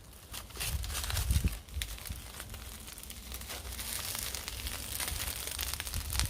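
Crinkling and crackling handling noise with a few low knocks about a second in, then a steadier soft hiss.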